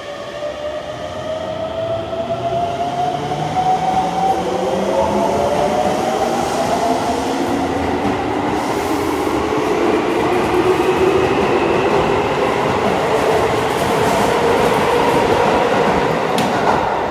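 Chiba New Town Railway 9800 series train (set 9808) pulling away, its Toyo GTO-VVVF inverter whine climbing in pitch in overlapping steps as it accelerates. Wheel and rail running noise grows louder underneath.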